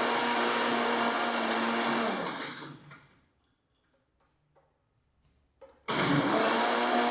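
Electric blender blending avocado juice, switched off about two seconds in so that the motor winds down in pitch to a stop. After a few seconds with only faint clicks, it is switched back on and runs at full speed.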